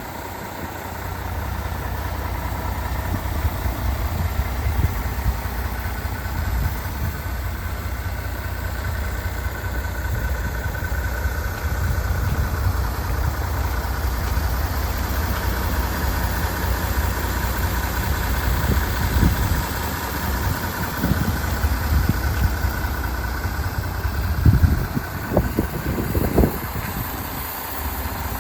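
MAN TGX 26.470's 470 hp Euro 6 six-cylinder diesel engine idling steadily, with a few low thumps near the end.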